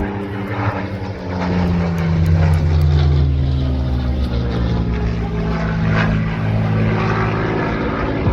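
Piston-engined propeller warbird making a low pass. Its engine drones loudly and the note slowly drops in pitch as it goes by, loudest about two to three seconds in.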